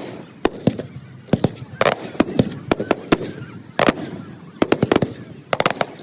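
Fireworks going off: an irregular run of sharp bangs and cracks, some single and some in quick clusters of rapid reports.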